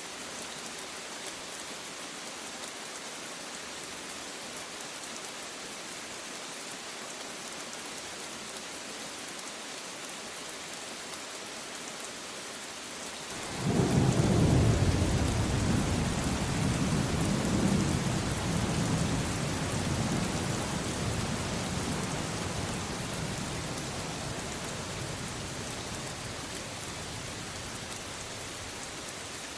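Steady rain hiss. About halfway through, a thunder clap breaks in suddenly and rolls on as a deep rumble, loudest for the first few seconds and then slowly dying away under the rain.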